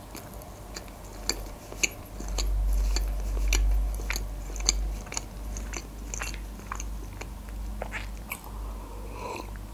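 Close-miked chewing of food, with many small wet mouth clicks and smacks. A low rumble comes in about two seconds in and lasts a few seconds.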